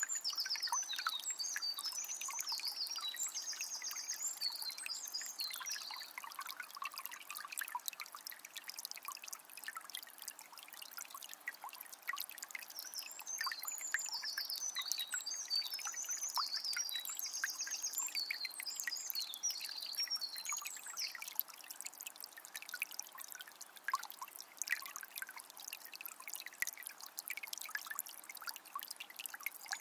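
A calm forest river flowing, trickling and splashing steadily. A songbird sings high, quick warbling phrases at the start and again from about twelve to twenty seconds in.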